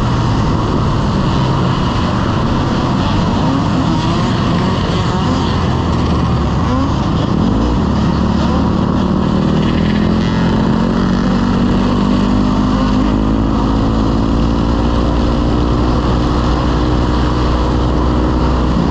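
Motorcycle engine running while riding, over a steady rush of noise; the engine note climbs gradually from about eight seconds in as it speeds up.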